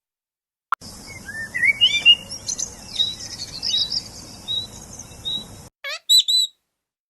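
Small birds chirping: many short chirps and rising whistled notes over a soft outdoor background. Near the end the background stops and two or three short, high-pitched calls follow.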